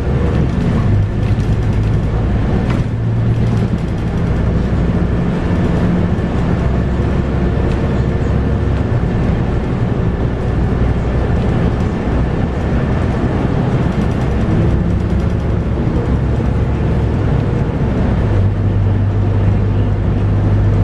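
Scania K230UB bus under way, heard from inside: its 8.9-litre five-cylinder Scania DC9 diesel and ZF Ecomat six-speed automatic running, the engine note shifting up and down in pitch, with a strong steady low hum setting in near the end.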